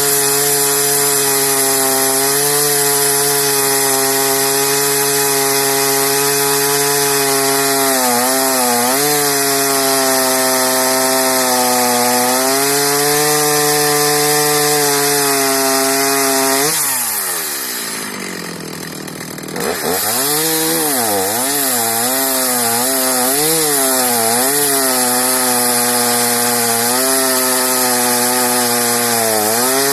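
Stihl MS 310 two-stroke chainsaw with a 20-inch bar, running under load as it cuts wood at a steady high pitch. A little past halfway the engine note falls quickly to a low idle for about two seconds. It then revs back up with a wavering pitch before settling into a steady cut again.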